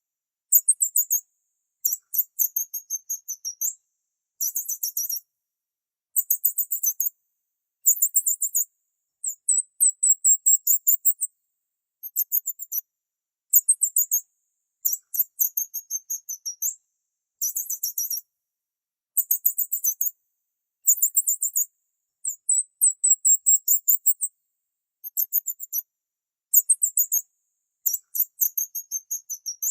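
A small bird's very high-pitched, rapid chirping. Short trilled phrases repeat over and over, about one every one and a half to two seconds, with silence in between.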